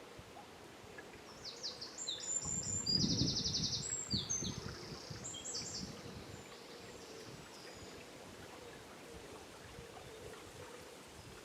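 River flowing steadily in the background while a songbird sings one short burst of quick high notes with a rapid trill, about two to five seconds in. Low rumbling comes at the same time as the song.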